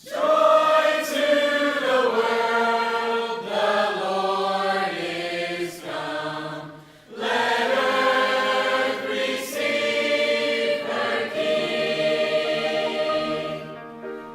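High school choir singing in harmony, coming in together out of silence, with a brief break about seven seconds in before the voices start again.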